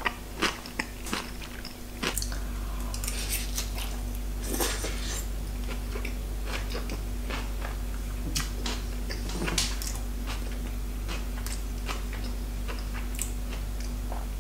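A person chewing a mouthful of salad close to the microphone: irregular soft crunches and wet mouth clicks. A steady low hum runs underneath and grows stronger about two seconds in.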